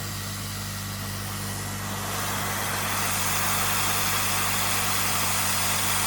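Hot air rework station blowing a steady hiss of air over a low electrical hum while it heats a MOSFET to desolder it; the hiss grows louder about two seconds in.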